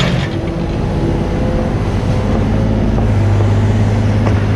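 Mini excavator's diesel engine running steadily, its low drone growing stronger about three seconds in.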